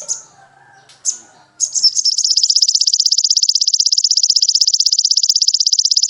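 Songbird in a bird-tutoring song recording: two short, sharp high chirps, then from about a second and a half in a long, very fast, even high trill. A faint lower warbling sits under the opening chirps.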